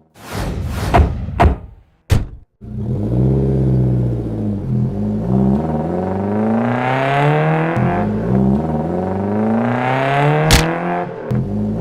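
Cartoon vehicle engine sound effect revving, its pitch rising and falling again and again. A few quick whooshes come first, and there is a sharp crack near the end.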